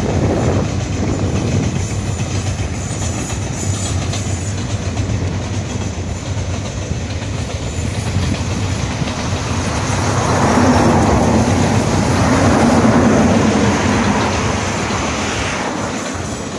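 Long Standard Gauge Railway cargo train's wagons rolling past close by: a steady rumble of wheels on the rails, swelling about ten seconds in with a low hum and easing off near the end.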